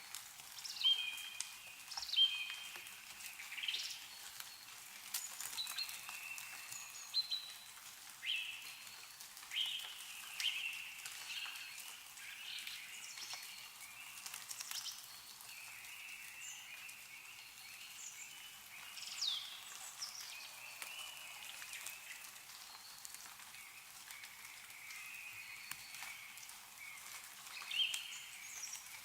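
Small birds chirping and calling in short, repeated notes and quick rising and falling whistles, over faint dripping of melting snow.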